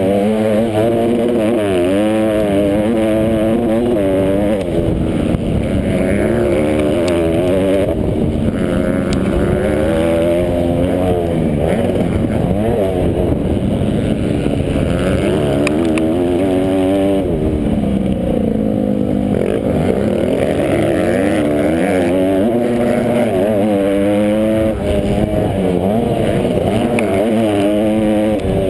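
Several motocross bikes racing together, their engines revving up and down in overlapping waves as riders open and close the throttle and shift gears.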